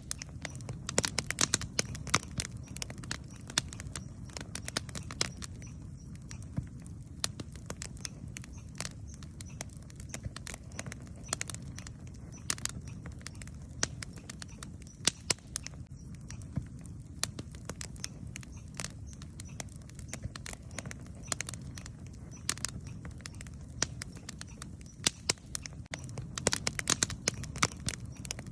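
Wood campfire burning, with sharp irregular crackles and pops over a low steady rumble of the flames; the crackling comes in thicker clusters now and then.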